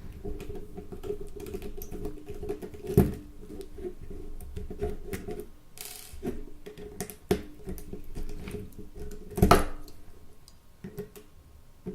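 Small T6 Torx screwdriver unscrewing the tiny screws of a Nokia 3310's frame: a run of light scratchy clicks and ticks as the bit turns and the plastic phone is handled, with two sharper knocks about 3 and 9.5 seconds in over a faint steady hum.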